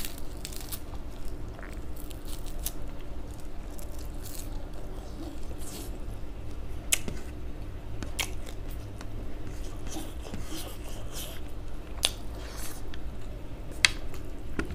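Close-up mouth sounds of eating: chewing roasted dried fish and rice, with scattered sharp clicks and crunches, over a steady low hum.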